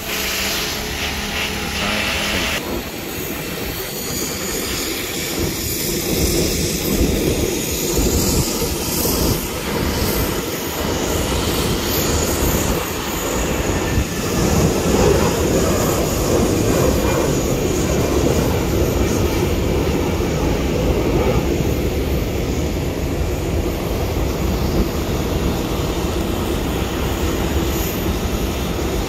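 Jet aircraft engines running: a loud, steady roaring rush that swells about six seconds in and then holds.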